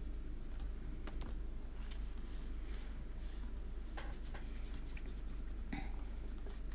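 Faint scratches and taps of a paintbrush working watercolor on paper, over a steady low hum.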